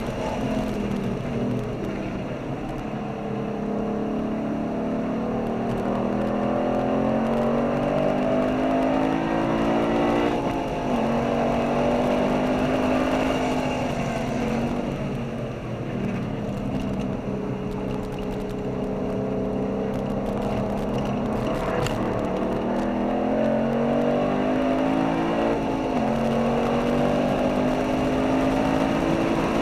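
V8 performance car engine heard from inside the cabin, pulling hard under acceleration. Its pitch climbs and then falls sharply at gear changes about three times, with wind and tyre noise underneath.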